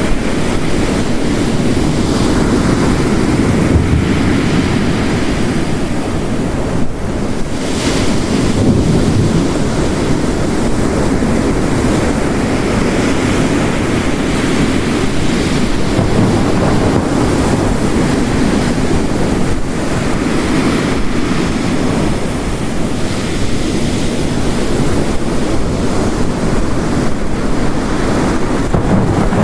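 Heavy rain falling together with ocean waves crashing on a rocky coast, a steady dense wash of storm noise with the surf swelling and easing.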